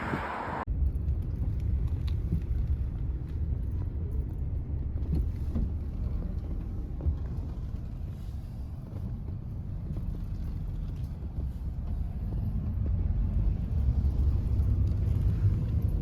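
A hissing noise cuts off abruptly just under a second in, giving way to a low, steady rumble.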